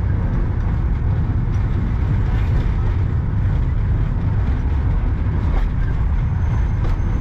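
Darjeeling Himalayan Railway narrow-gauge toy train running along the track, heard from on board: a steady, loud low rumble of the moving train.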